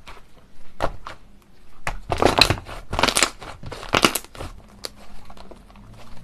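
Slime being squeezed and pressed by hand, giving bursts of crackling and popping. A smaller burst comes about a second in, then three strong ones about a second apart.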